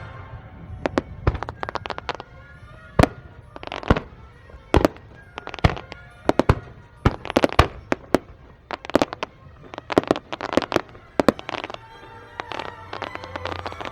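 Aerial fireworks shells bursting in a quick, irregular run of sharp bangs, some coming in tight crackling clusters, over faint background music.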